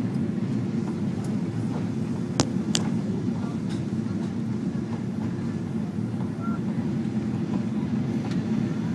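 Steady low roar inside the cabin of a Boeing 777-200 in flight, from its engines and the airflow over the fuselage. Two sharp clicks come about two and a half seconds in.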